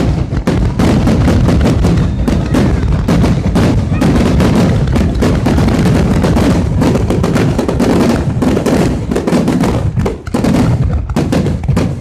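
A dense, continuous barrage of firework explosions close by: overlapping bangs and crackles with hardly a gap, easing briefly about ten seconds in.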